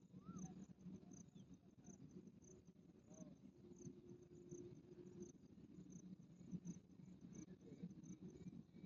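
Near silence with faint insect chirping: short high chirps repeating about twice a second.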